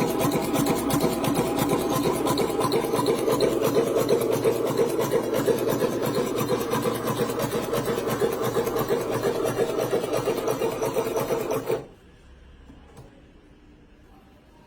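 Shoe-repair sewing machine running at speed with a rapid, even stitching clatter, then stopping suddenly about twelve seconds in.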